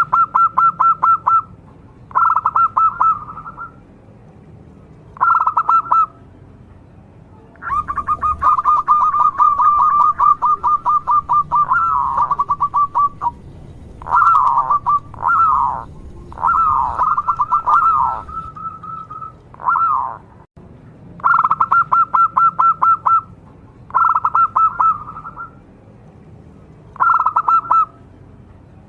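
Zebra dove (perkutut) cooing: repeated bursts of fast, staccato notes, mostly a second or two long, with one longer unbroken run of about five seconds in the middle.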